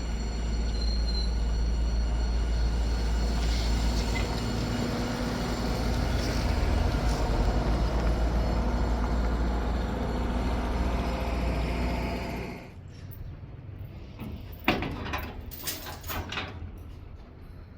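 Car running with a deep, steady rumble and road noise, which cuts off suddenly about twelve and a half seconds in. A few sharp clicks and knocks follow.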